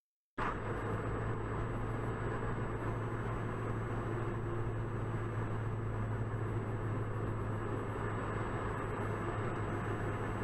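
Steady engine and road noise of a moving vehicle with a constant low hum, cutting in abruptly about half a second in.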